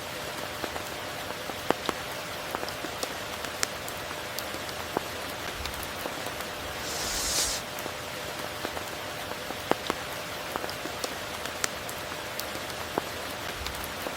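Steady tropical rain falling, with many individual drops pattering close by. About halfway through, a brief louder hiss swells up and dies away.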